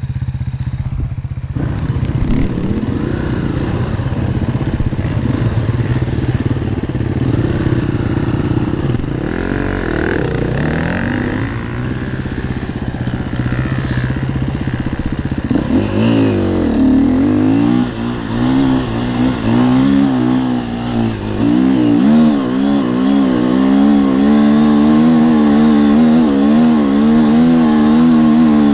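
Enduro dirt bike engine running close by. In the first half it holds a fairly steady drone; from about halfway it gets louder and its pitch rises and falls quickly as the throttle is worked on and off over rough ground.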